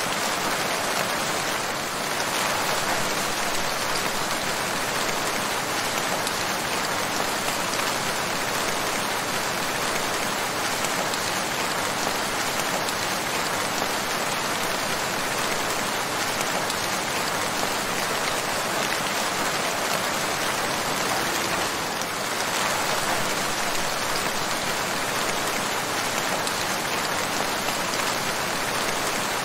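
Steady, dense rain falling and pattering on surfaces, an even hiss with no let-up.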